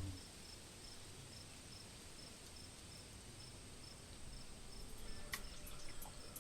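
Faint insects chirping: a soft, high chirp repeating evenly several times a second over a steady high hum, with a few sharp clicks near the end.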